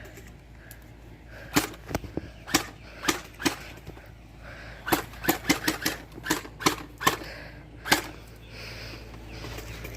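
Gel blaster firing: about fifteen sharp pops in an uneven string, some in quick bunches.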